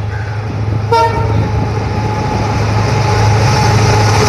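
Diesel locomotive horn sounding about a second in, over the low drone of the running train, which grows steadily louder.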